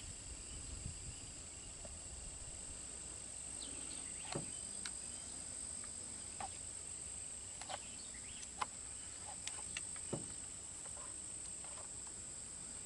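Steady high-pitched chirring of insects, crickets by the sound of it, with a few faint clicks and knocks scattered through, the kind made by handling a rifle. No shot is fired.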